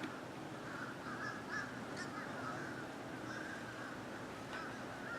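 A large flock of birds calling continuously, many short harsh calls overlapping into a steady chatter.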